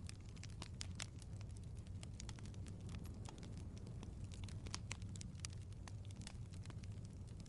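Wood fire crackling: quick, irregular sharp pops and snaps over a steady low rumble.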